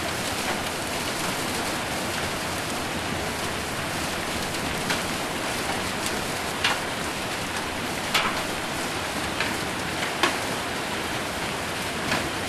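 Rain and hail on a roof: a steady hiss of rain, with a few sharper single hits standing out every second or two.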